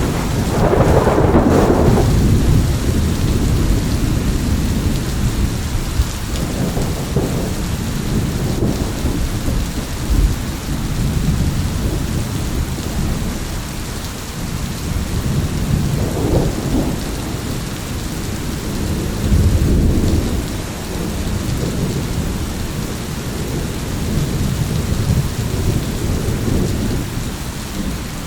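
Thunderstorm: steady rain with thunder rumbling again and again, the loudest rumble about a second in and others swelling around the middle.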